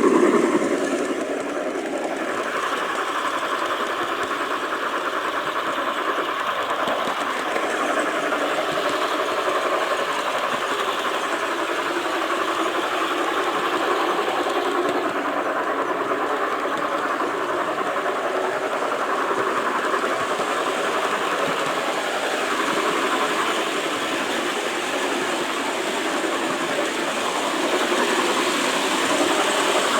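G-scale model train running along its track, its wheels and drive motor making a steady rolling rattle.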